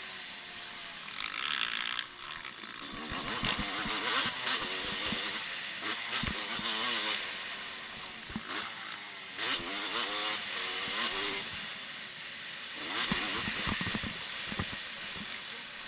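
Motocross bike engines revving, their pitch rising and falling again and again as the bikes accelerate and shift gear.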